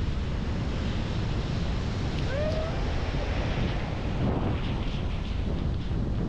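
Sea waves breaking steadily on a beach, with wind buffeting the microphone.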